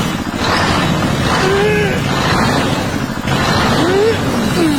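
Motor of a miniature walking tractor running steadily with a rapid even chugging, with a few short, wordless voice-like calls sliding in pitch over it.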